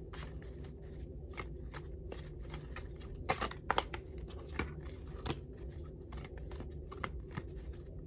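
A traditional tarot deck being shuffled by hand: a run of short card flicks and slaps, with a louder cluster about three and a half seconds in.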